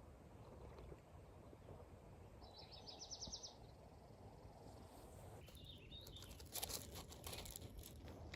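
Faint outdoor quiet with a steady low background hiss. About three seconds in there is a short, high, rapid chirping trill from a small bird. From about six seconds a few soft clicks and crunches follow.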